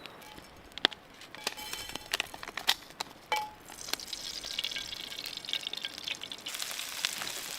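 Camp cooking: light clicks and knocks of cookware being handled, then from about four seconds in a steady hiss that grows louder near the end, as food starts to fry.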